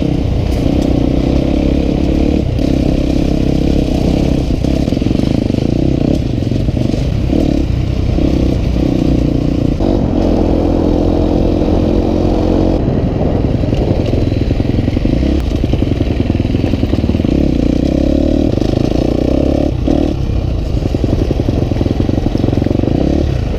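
Dirt bike engine running while being ridden, its note rising and falling with the throttle.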